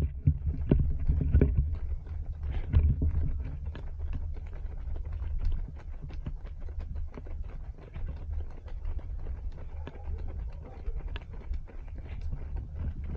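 Running footsteps on pavement, a quick steady rhythm of footfalls from the runner and the group, over a low rumble of wind and body movement on a body-worn action camera's microphone. The rumble and footfalls are loudest in the first few seconds.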